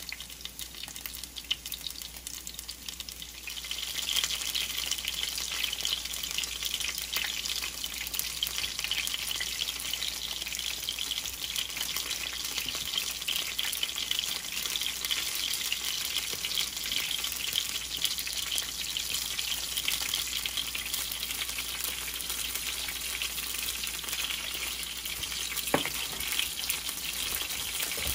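Battered asparagus spears frying in shallow oil in a skillet: a steady sizzle with fine crackling that grows louder about four seconds in.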